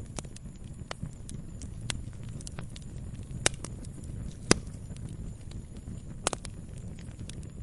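Wood fire in a fireplace crackling, with irregular sharp pops, the loudest about halfway through and a quick double pop near the end, over a low steady rumble.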